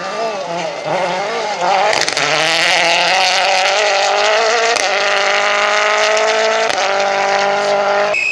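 A rally car's engine at high revs, its note rising and falling as it approaches, then passing close at full throttle with the pitch held high and two brief breaks; the sound cuts off abruptly near the end.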